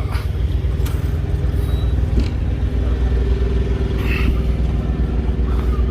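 Diesel semi-truck engine idling steadily, with a few faint clicks over it.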